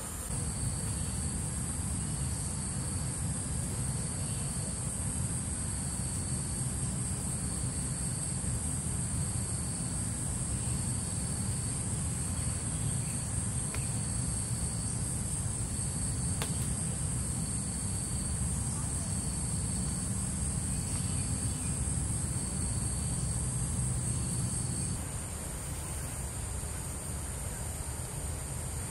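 Forest insects: a steady high-pitched drone, with a quieter pulsing call repeating every second or so, over a low steady rumble. Near the end the pulsing call and the rumble drop away, leaving the drone.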